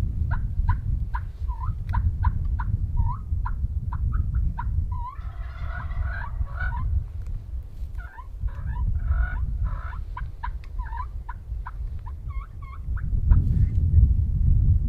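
Wild turkeys calling: a fast run of short yelping notes, broken by a rolling gobble about five seconds in and another about eight seconds in.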